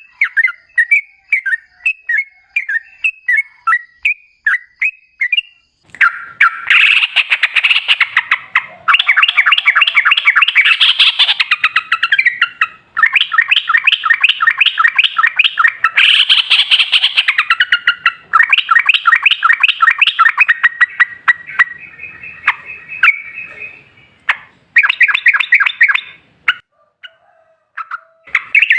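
Yellow-vented bulbul (trucukan) singing: short separate chirps at first, then from about six seconds in, long runs of rapid chattering notes (the 'ropel' song) in several phrases with short breaks between them.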